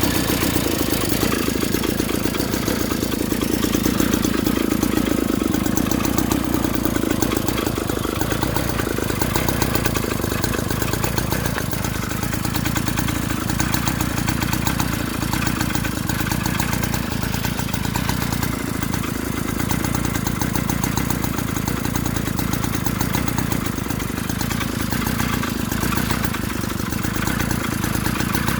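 49cc two-stroke pocket-bike engine idling, a steady, rapid stream of firing pulses with no revving.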